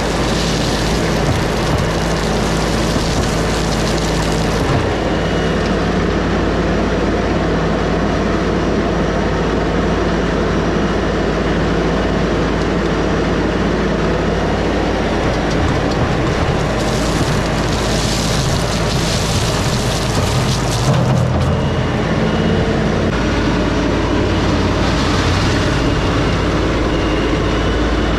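LS MT357 tractor's diesel engine running under working load, its note shifting several times. Stretches of higher hissing noise come and go over it.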